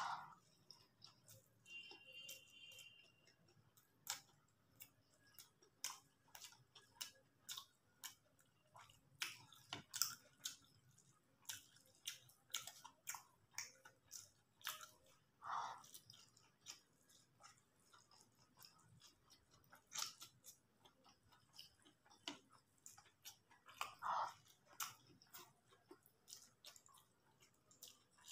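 Faint, close-up sounds of someone eating soft chowmein noodles: irregular wet clicks of chewing and lip smacks, with a few short louder mouth noises.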